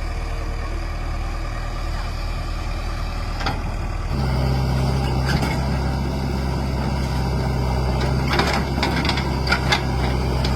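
Heavy vehicle diesel engine running steadily, stepping up to a higher, louder speed about four seconds in and holding there. A few sharp knocks come near the end.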